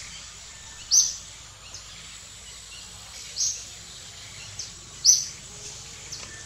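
A bird calling in short, high chirps: three loud ones about two seconds apart, with fainter ones between, over a steady faint background hiss.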